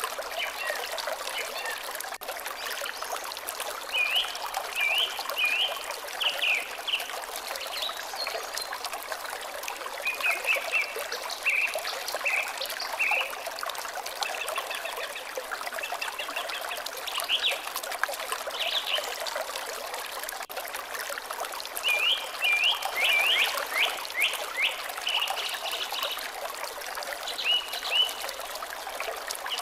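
Water trickling steadily, with a small bird's quick series of short chirps breaking in every few seconds.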